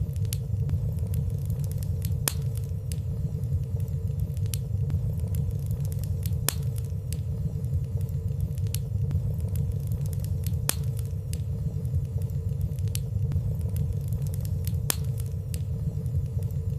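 Fireplace fire burning steadily, a low rumble under scattered small crackles, with a few sharper ticks spread irregularly through it.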